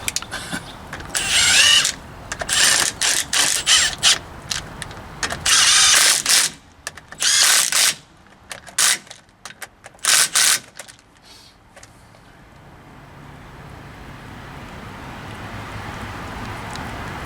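Hand ratchet wrench clicking in repeated short bursts as a brake caliper bolt is worked, a bolt that won't cooperate. The ratcheting stops about two-thirds of the way through.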